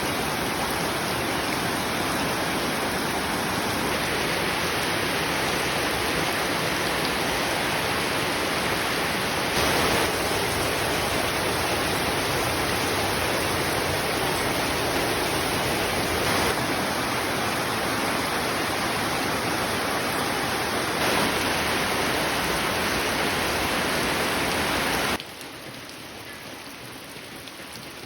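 Rain falling steadily, a dense even hiss. It suddenly turns much quieter about 25 seconds in.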